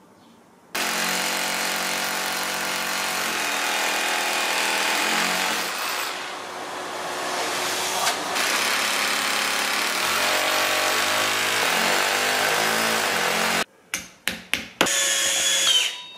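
Electric drill running under load for about thirteen seconds, its motor pitch wavering. It then cuts off and is followed by a few sharp clicks and short bursts near the end.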